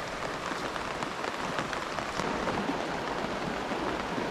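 Steady rain falling, with many individual drops striking a nearby surface in a dense, even patter of small ticks.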